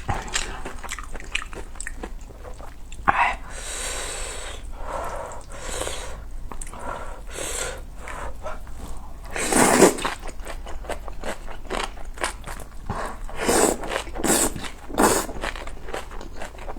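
Close-miked eating of spicy ramyun noodles, rice cakes and dumplings: steady wet chewing and biting clicks, broken by several short slurps, the loudest about ten seconds in.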